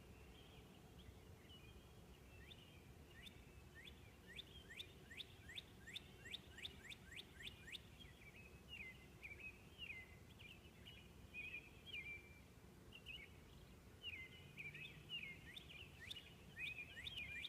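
Northern cardinal singing faintly: a rapid series of down-slurred whistled notes, about three a second, starting a couple of seconds in, then shorter twittering phrases, and fast down-slurred notes again near the end. A low steady background rumble runs underneath.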